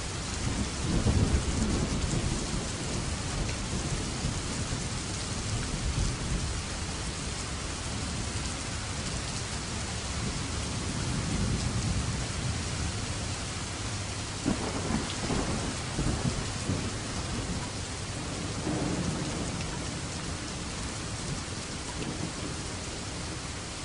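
Steady heavy rain with rolling thunder: a loud rumble swells about a second in, and further rumbles come around the middle and later in the clip.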